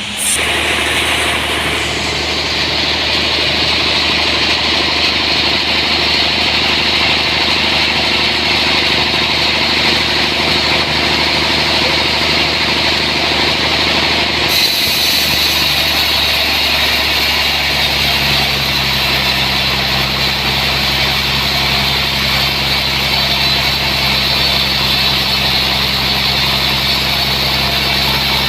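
Sawmill's engine running steadily under a high hiss, starting abruptly and shifting slightly in tone about halfway through.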